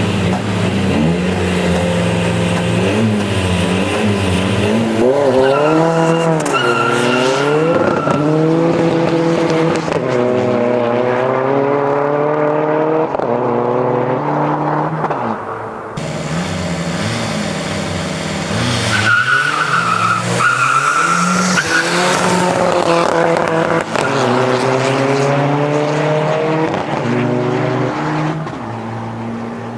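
Tuned Seat Ibiza Cupra diesel engine under hard acceleration, its pitch climbing and dropping back at each upshift. This happens in two pulls, the second starting about halfway through. A high whistle sounds briefly near the start of each pull.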